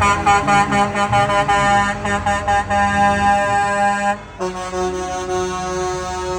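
Parade truck's horn blaring a quick run of short notes for about four seconds, then one long held chord.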